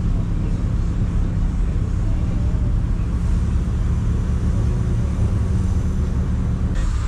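A car driving at a steady speed: a constant low engine drone with road noise, and a short brighter rush of noise just before the end.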